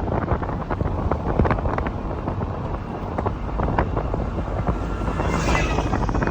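Heavy wind buffeting the microphone over a constant low rumble, as from a moving vehicle, with crackling gusts throughout. About five seconds in, a brief higher-pitched sound with several pitched lines rises over the wind.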